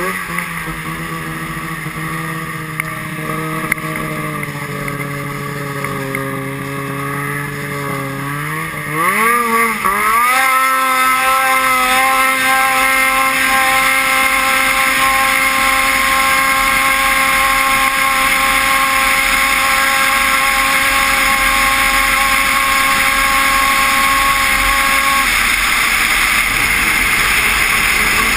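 Vehicle engine running at a steady speed, then revving up quickly about nine seconds in and holding a steady, higher and louder drone. Near the end the engine tone fades into an even rushing noise.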